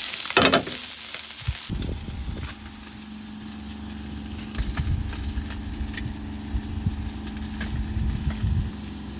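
Fish frying in a pan, sizzling for about the first two seconds, then a sudden change to a steady low hum with a few light clicks and low thumps.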